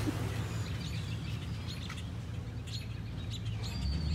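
Small birds chirping, many quick high chirps that grow busier in the second half, over a steady low hum that gets louder near the end.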